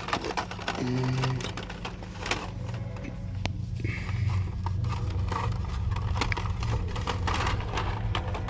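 Shop ambience: faint background music over a steady low hum, with scattered small clicks of handling.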